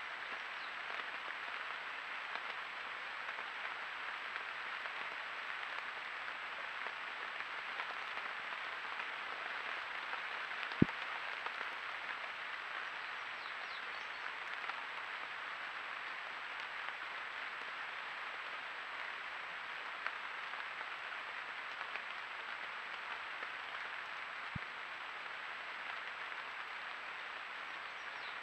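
Steady rain falling on the surrounding woodland foliage, an even hiss. A sharp tap comes about eleven seconds in, with a second, fainter one later.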